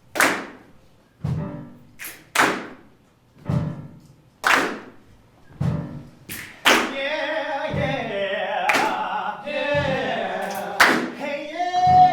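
Heavy rhythmic thuds struck by performers about once a second, a chain-gang work beat. Voices singing together join the beat about seven seconds in.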